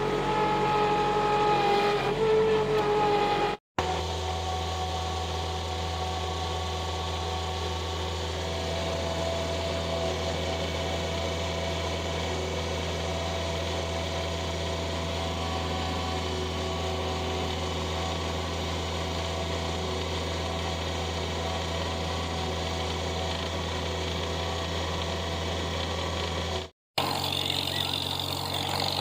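Vehicle engine running steadily in three clips cut together, the longest a steady low hum.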